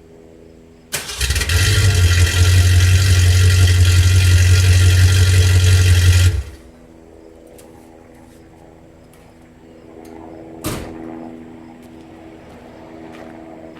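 1976 Mustang engine breathing through Hooker headers, hollowed-out catalytic converters and a 3-inch single exhaust with an IMCO race muffler, idling, then revved hard about a second in and held for about five seconds before dropping back to idle. A single sharp knock sounds about two-thirds of the way through.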